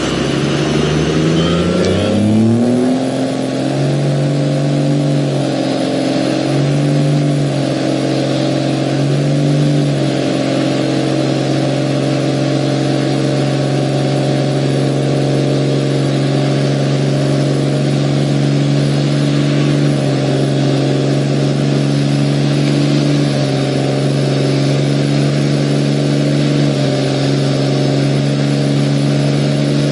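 A 2000 Dodge diesel pickup doing a burnout: its engine revs up over the first couple of seconds and is held at high revs. It dips briefly three times in the first ten seconds, then holds steady.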